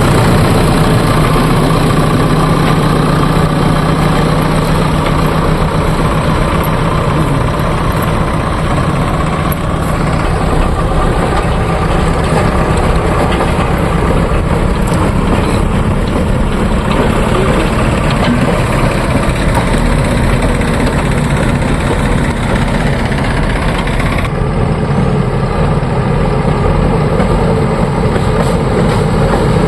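Diesel engine of heavy earthmoving machinery, a JCB 3DX backhoe loader at work with a tractor, running steadily at a loud level with a low rumble. The sound changes abruptly about 24 seconds in.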